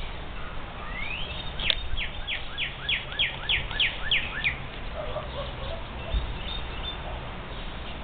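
A songbird singing one phrase: a rising note, then a run of about ten quick falling whistled notes, roughly three a second, over a steady low background rumble.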